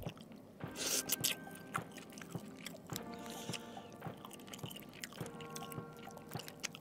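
Close-up chewing and mouth smacking while eating fried mackerel tuna and rice by hand, in many short wet clicks, over soft background music.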